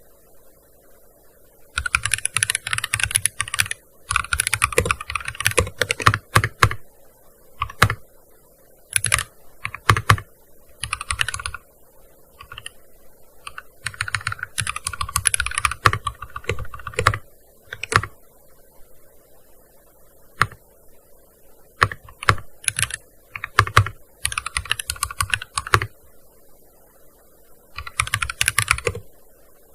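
Typing on a gaming keyboard in uneven bursts of fast keystrokes, broken by short pauses and a few single key presses. The first couple of seconds are quiet before the typing starts.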